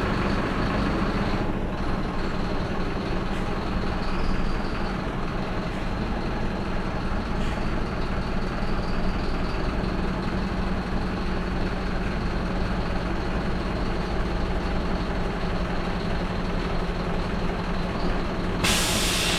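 Mercedes-Benz Atego hooklift truck's diesel engine running steadily with a constant drone. A short, sharp hiss of air comes near the end.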